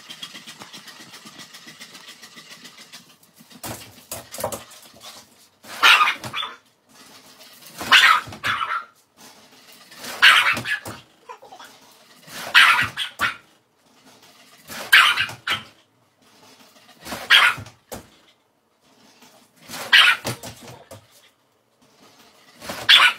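A dog barking in short loud outbursts, one about every two to two and a half seconds, some nine times in all, after a few seconds of steady hiss.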